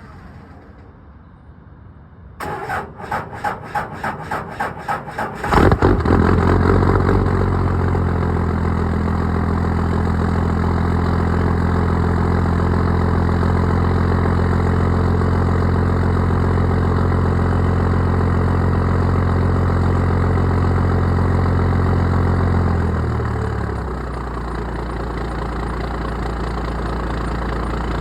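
Cummins 12-valve diesel inline-six cold start: the starter cranks it with about three pulses a second for some three seconds, the engine catches and runs steadily at a higher speed, then about 23 seconds in it drops to a lower, quieter idle.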